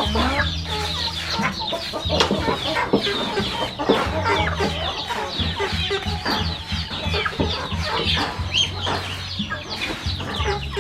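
A flock of chickens clucking, with many short high peeping calls overlapping throughout. A low steady hum runs underneath and drops out briefly now and then.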